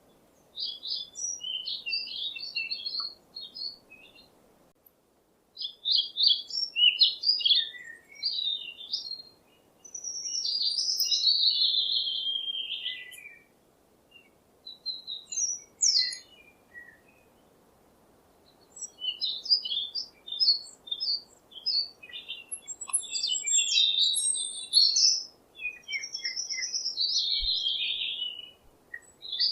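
A songbird singing: phrases of quick, high chirps and trills, repeated with short pauses between them.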